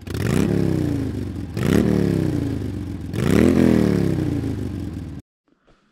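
Motorcycle engine revved three times, about a second and a half apart, each rev rising sharply in pitch and then slowly falling away; the sound cuts off abruptly about five seconds in.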